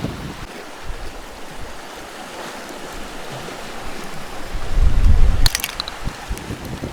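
Waves and wind at the beach, the wind buffeting the microphone with a gust about five seconds in, and a quick run of sharp clicks just after the gust.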